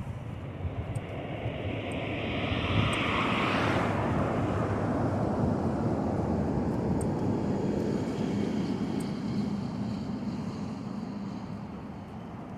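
A passing engine noise from a vehicle, swelling to its loudest about three seconds in and then slowly fading.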